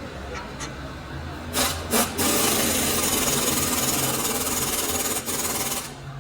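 A power tool gives two short bursts, then runs steadily for almost four seconds before stopping.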